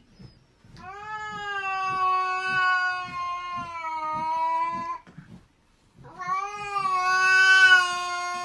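A cat yowling in two long, drawn-out calls held at a steady pitch, the second beginning about six seconds in.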